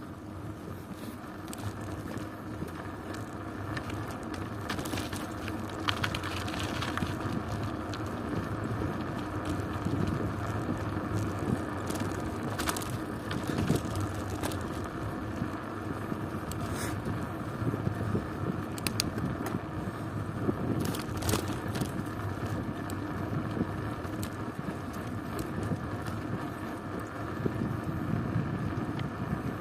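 Bicycle in motion: steady tyre and road noise with scattered rattles and knocks from the bike.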